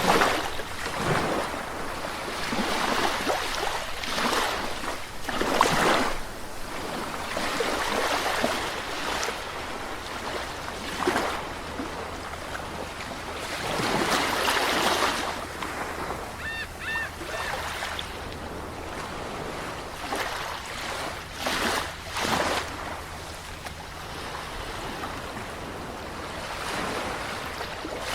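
Sea waves washing onto a shore, each surge rising and falling back every few seconds over a continuous wash.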